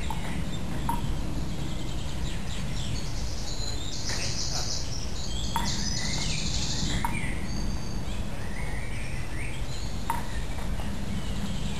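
Woodland songbirds singing, including two rapid high trills about four and six seconds in, over a steady low background rumble. There are a few short sharp knocks, about one, five and a half and ten seconds in.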